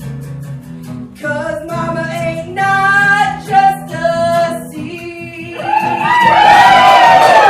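Live singing with instrumental backing: a voice sings held notes over steady low accompaniment, then several voices come in together about six seconds in, loud and gliding downward.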